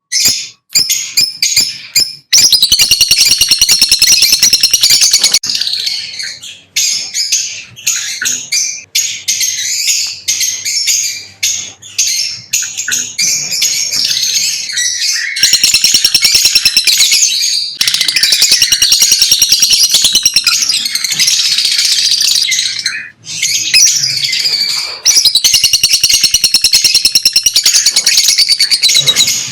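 Lovebirds chirping in rapid, high-pitched chatter. The calls come in loud stretches of several seconds, with sparser single chirps between them.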